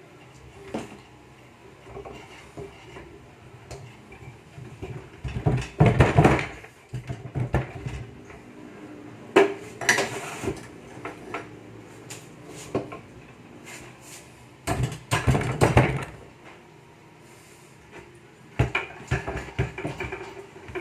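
Metal engine parts and hand tools clanking and scraping during engine disassembly, in irregular bursts of clatter with quieter handling in between.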